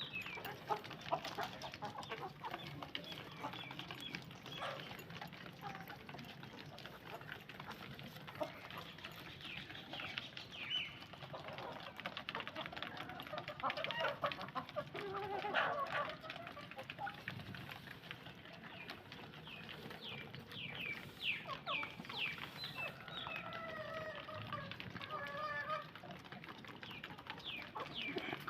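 Chickens clucking, with many short, high, falling chirps scattered throughout.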